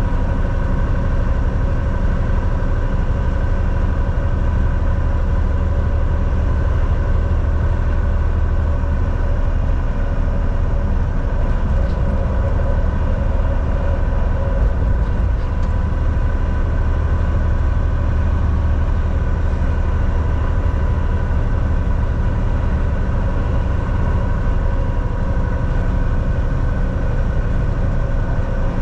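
Volvo VNL 760 semi truck cruising on the highway, heard from the driver's seat: a steady low rumble of engine and tyres with a constant high whine over it.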